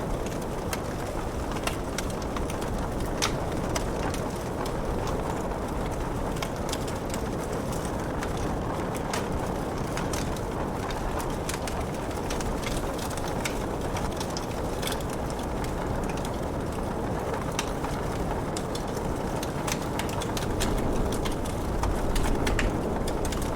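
Wood fire crackling, with sharp pops scattered irregularly over a steady rush of rain.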